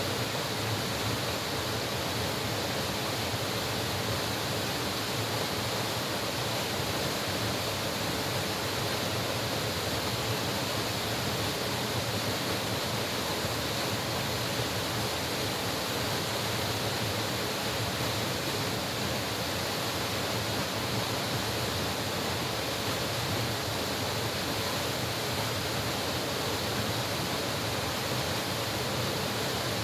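Mountain valley stream flowing: a steady, even rush of water that doesn't change.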